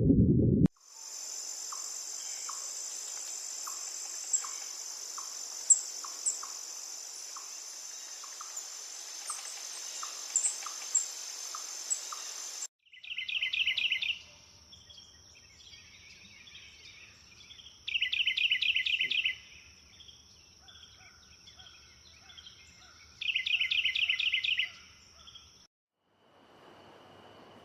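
Rainforest ambience of insects: a steady high-pitched insect drone with regular ticking, about two a second, and a few sharp chirps. It cuts off abruptly to a different high insect tone, over which a loud rapid pulsed trill sounds three times, about five seconds apart.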